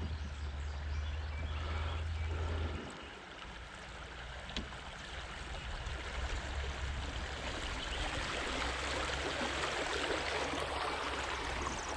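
Fast-flowing creek water rushing and gurgling over riffles, a steady hiss that grows a little louder in the second half. A low rumble sits under it for the first few seconds.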